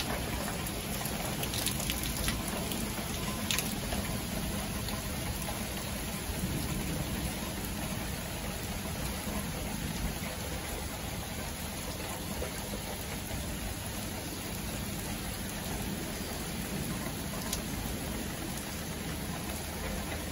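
Steady thunderstorm rain falling, with a few sharp drop ticks in the first few seconds.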